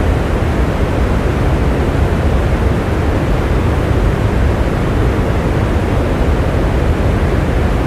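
Steady rain, an even low-pitched hiss with no separate drops or thunder standing out.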